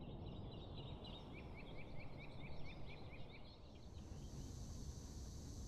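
Faint birdsong over quiet room tone: a bird repeats a short high chirp about five times a second, and the chirping fades out about three and a half seconds in.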